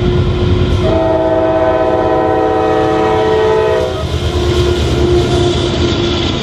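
Norfolk Southern diesel freight locomotive sounding its multi-chime air horn in one long blast of a few seconds, starting about a second in, over the steady rumble of the passing train. Once the horn stops, a single repeating ringing tone carries on.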